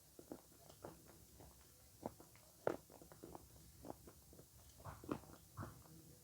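Close-miked mouth sounds of avocado being chewed, a scatter of soft, irregular clicks and smacks, the loudest about two and a half seconds in.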